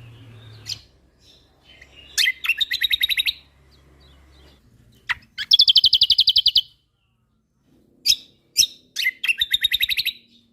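Kecial kombok (cucak kombo) singing in three bursts, each opening with a sharp call note and running straight into a fast, evenly repeated trill, the rapid 'tembakan' delivery of a bird in full song.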